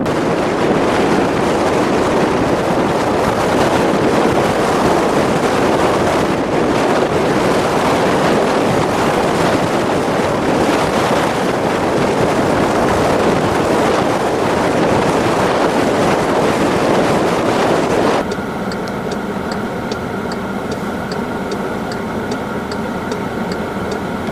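Blizzard wind buffeting the microphone in a loud, steady rush. About 18 seconds in it cuts off abruptly to a quieter steady vehicle engine idle with a regular ticking about twice a second.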